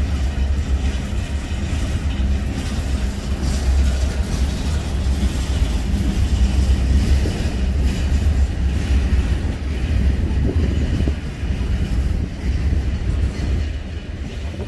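Freight train cars rolling past: a steady low rumble of steel wheels on rail, with faint clacks.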